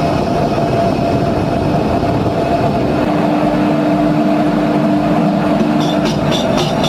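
Indian Railways train running, a loud, steady rumble. About six seconds in, a fast, regular clicking starts, about four a second.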